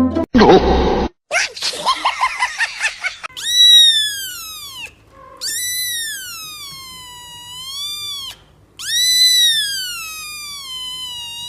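A cat yowling: three long, high-pitched wailing cries, each falling and then rising again in pitch. Before them come a short hiss-like burst and a raspy, pulsing growl.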